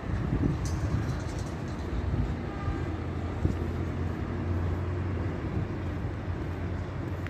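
Electric commuter train at a station platform: a steady low hum with a few short knocks.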